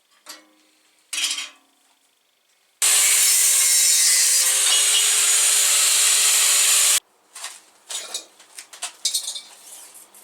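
A power tool runs for about four seconds, starting and stopping abruptly, its motor note sagging slightly as it bites into the work. Short knocks and clatter of handling come before and after it.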